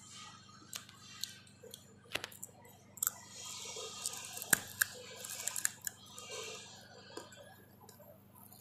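Close-up eating sounds: crunching and chewing of crisp fried pork-skin cracklings, with sharp crackles and clicks, densest from about three to six seconds in.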